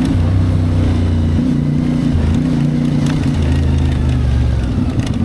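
CFMoto 450MT's parallel-twin engine running as the motorcycle rides along, its note stepping up and down several times with the throttle.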